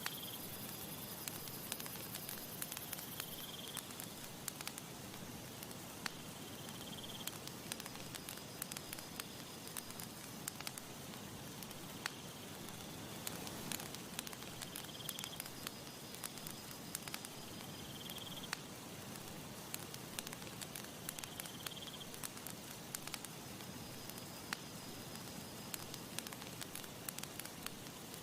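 Campfire crackling: a steady soft hiss dotted with many sharp pops and snaps. Short high chirps come every few seconds.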